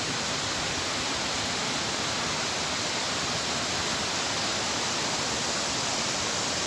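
Vazhachal waterfall's water pouring over rocks: a steady, unbroken roar of falling water.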